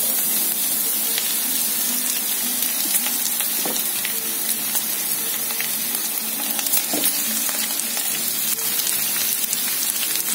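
Cut okra sizzling steadily as it fries with onions in hot oil in a nonstick pan, with a few light taps and scrapes of stirring.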